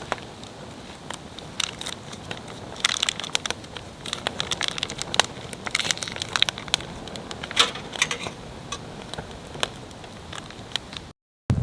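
Wood campfire crackling: irregular sharp snaps and pops over a steady low hiss, cut off abruptly near the end.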